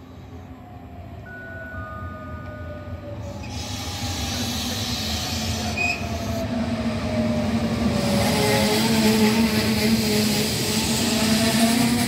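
Double-deck electric regional train approaching and running in alongside the platform, growing steadily louder. The motor hum and the wheel and rail noise rise with it, and several whines slowly fall in pitch.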